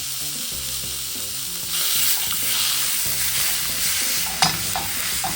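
Ground beef sizzling in a skillet, getting louder about two seconds in, with one sharp knock of a utensil against the pan near the end.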